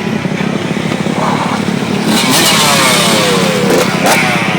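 Dirt bike engines running, with a steady drone throughout. From about halfway in, one engine's pitch slides down steadily for almost two seconds, then rises again briefly near the end.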